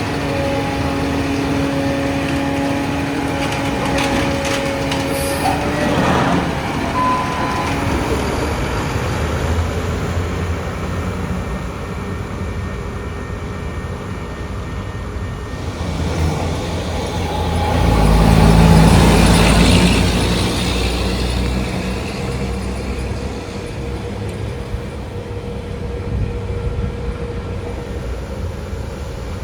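Diesel concrete mixer truck engines running, with a steady hum for the first few seconds; about eighteen seconds in a louder surge of deep rumble and hiss rises and fades over a few seconds.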